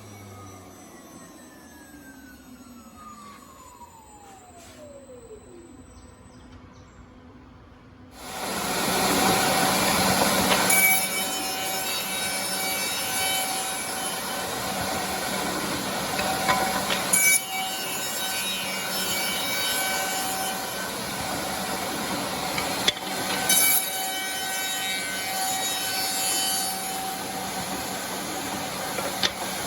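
Automatic double CNC tenoning machine. In the first few seconds a motor winds down with a falling whine. About eight seconds in the machine starts up loud and runs steadily with a cutting noise, with brief louder moments roughly every six seconds.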